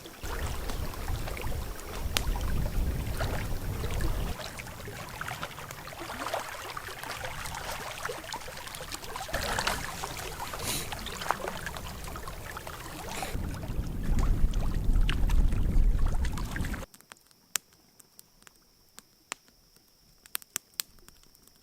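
Water splashing and trickling with scattered knocks, with a heavy low rumble of wind buffeting the microphone that swells twice. About 17 s in it cuts abruptly to a quiet scene with crickets chirping steadily.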